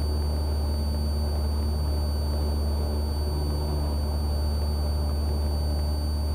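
Cessna 172R's four-cylinder Lycoming engine and propeller running steadily at full climb power just after a soft-field liftoff, heard from inside the cabin as a constant low drone with a thin steady high whine over it.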